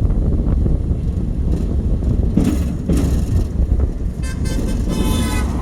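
Car horns honking twice, briefly, at the passing train, over the steady low rumble of the moving open caboose.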